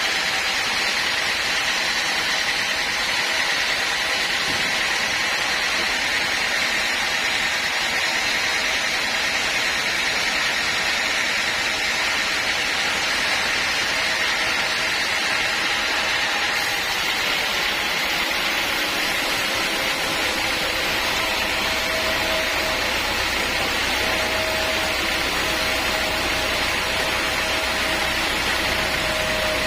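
Sawmill machinery running steadily: a continuous hiss with a high whine held throughout. A lower steady tone joins about two-thirds of the way in.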